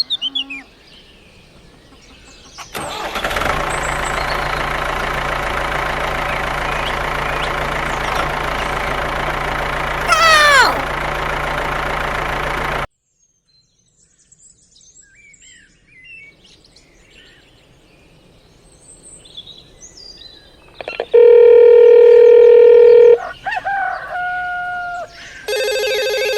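A steady engine-like running noise with a low hum, with a falling whistle partway through, that cuts off suddenly. Then faint bird chirps, a loud flat buzzing tone lasting about two seconds, and a ringing tone near the end.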